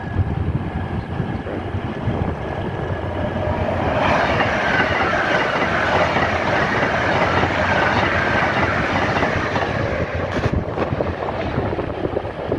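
A train passing through a station, its running and wheel-on-rail noise swelling about four seconds in and easing off near the end.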